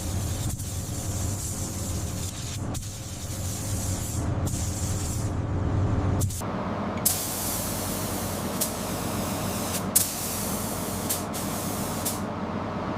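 A spray tool hissing steadily over a low hum for about six seconds. After a short break, the hiss runs on with short, sharper bursts every second or two.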